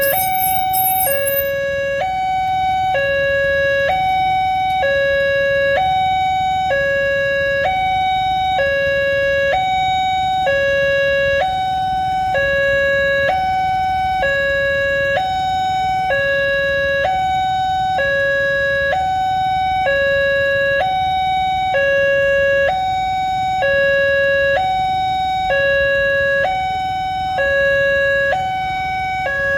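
Electronic warning alarm of a railway level crossing sounding a two-tone hi-lo pattern, switching between a higher and a lower pitch about once a second.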